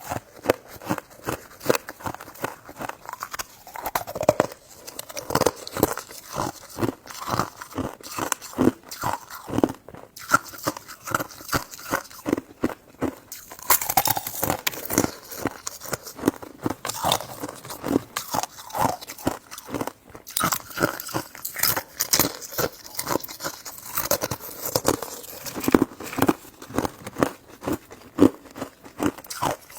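A person eating close to the microphone, biting and chewing, with a quick, irregular run of short wet mouth clicks, several a second.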